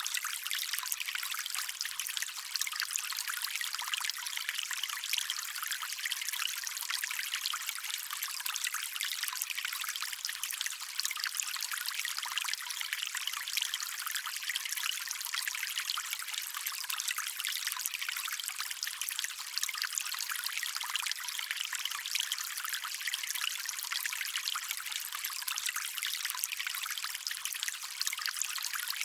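Shallow stream trickling, a steady bright wash of running water with fine splashing texture.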